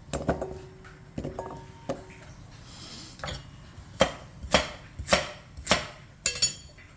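Knife chopping vegetables on a cutting board: a few scattered chops, then a steady run of five chops about two a second in the second half.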